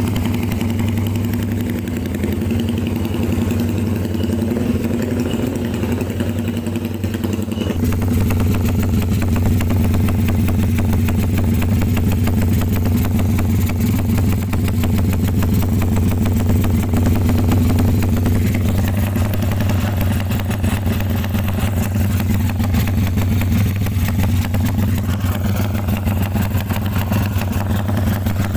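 Motorcycle engine idling steadily through an aftermarket BMS exhaust muffler, a low even burble. About eight seconds in it picks up slightly and grows a little louder, then holds steady.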